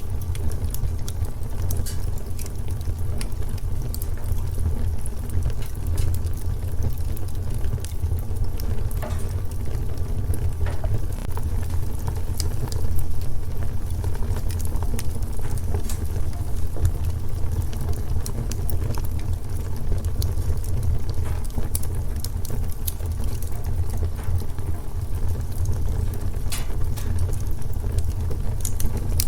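Wood fire in a fireplace crackling: frequent small sharp pops and snaps over a steady low rumble of the burning fire.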